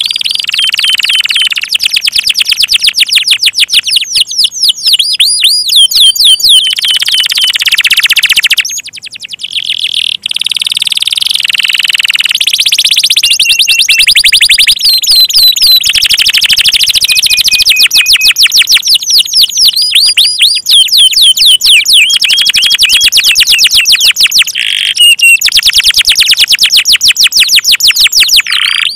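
Canary singing loud, rapid trills of repeated high chirps, one phrase running into the next with only brief breaks.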